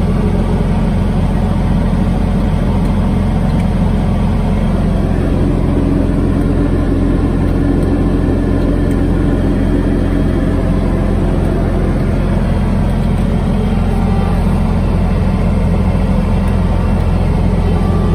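Toro Groundsmaster 328D's diesel engine running steadily at high revs, driving the PTO snow blower through powder snow.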